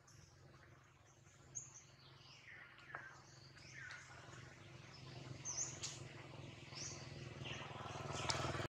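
Wild birds chirping: scattered short, high chirps and a few calls that slide downward, over a low steady hum. A rustling noise builds toward the end.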